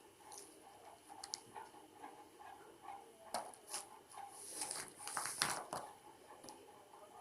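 A baby munching a biscuit: scattered crunches and wet mouth clicks, busiest about halfway through.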